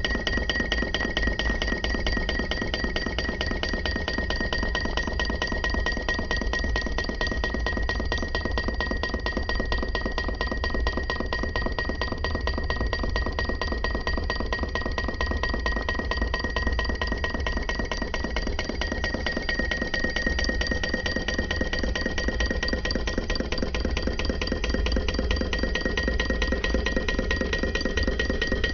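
PM Research solar Stirling engine running steadily, its mechanism making a rapid, even clicking with a constant high ringing tone.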